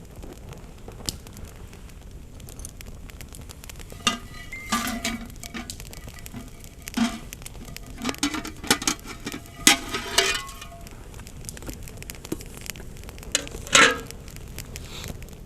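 Campfire crackling steadily, with cookware and utensils clinking and clattering over it in a busy run from about four seconds in and once more near the end, some strikes ringing briefly.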